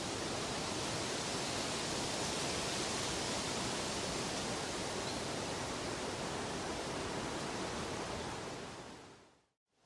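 Steady, even rushing noise of a relaxation sound track, like soft pink noise or distant falling water, fading out to silence about nine seconds in and just starting to fade back up.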